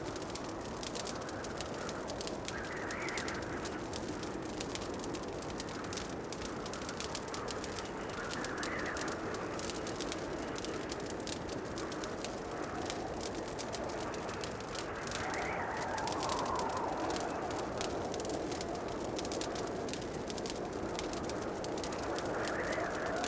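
Wood fire crackling in a fireplace: a dense run of small pops and ticks over a steady low rumble, with a soft swelling sound rising and falling every few seconds.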